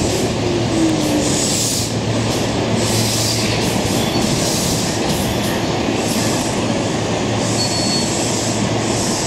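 Hanshin 5001-series local electric train running along the platform, with a steady rumble and wheel clatter. A short falling tone comes in the first second, and a brief high brake or wheel squeal comes near the end, as the train pulls in to stop.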